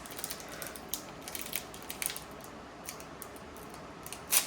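Trading cards handled by hand as they are flipped through: scattered light scrapes and ticks of card stock sliding against card, with one sharper click near the end.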